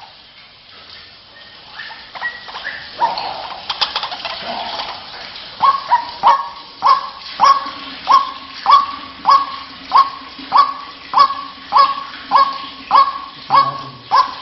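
White-breasted waterhen calling. After a few scattered calls it settles, about five seconds in, into its monotonous repeated call, close to two a second.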